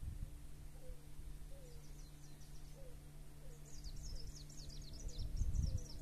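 Small songbird singing a quick run of high, falling notes, faint at first and fuller over the second half. Under it run a steady low hum and a low rumble that swells near the end.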